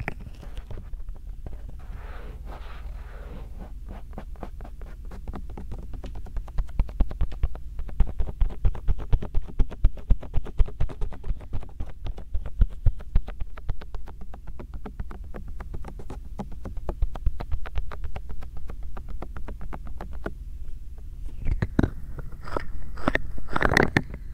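Bare hands massaging a binaural microphone's ears: soft rubbing at first, then a long, steady run of light pats or presses at about four a second. Louder, crackly rubbing comes near the end.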